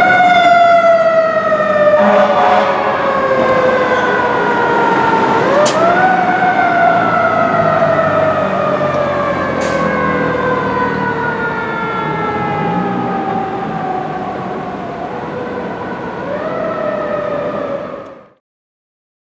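Fire engine's Federal Q mechanical siren winding up three times and coasting down slowly in long falling wails between them. It cuts off suddenly near the end.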